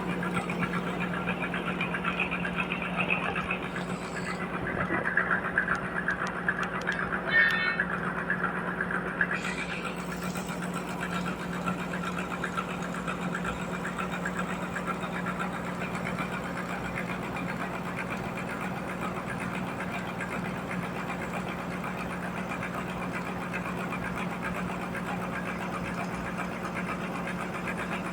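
Sawmill machinery running steadily with a constant hum. Between about four and ten seconds in there is a louder, higher cutting sound with a brief squeal near the middle, after which the machine settles back to a steady run.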